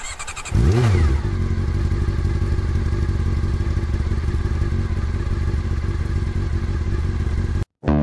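Motorcycle engine starting: a short rough start, a quick rev that rises and falls about a second in, then a steady idle. It cuts off abruptly near the end.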